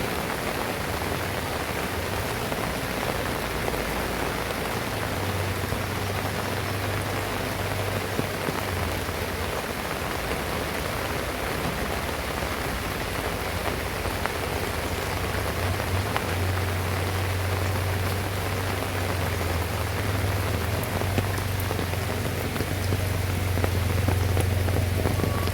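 Heavy rain falling steadily, with a low hum or rumble that comes and goes underneath.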